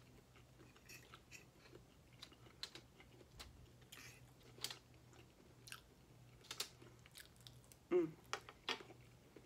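Close-up mouth sounds of someone chewing and biting breakfast food, faint, with small crunches and scattered sharp clicks of a fork on a foil-lined tray. A short vocal sound comes about eight seconds in.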